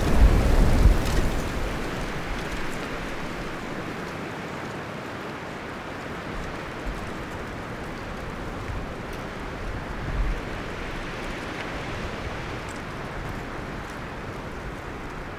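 Wind blowing through forest trees, leaves and branches rustling. A strong gust with a deep rumble in the first couple of seconds eases off into a steady rustle.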